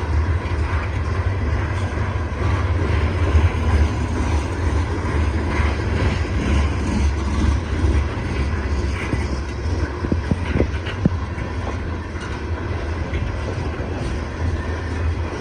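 CSX coal train's hopper cars rolling past, a steady heavy rumble with a few sharp wheel clicks about two-thirds of the way through.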